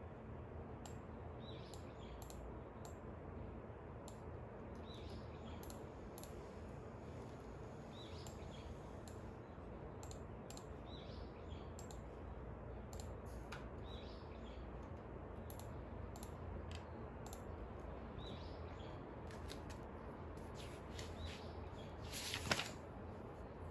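A bird calls repeatedly, a short chirp about every second and a half, over a steady background hiss. Light scattered clicks run alongside, and a louder brief rasping rustle comes near the end.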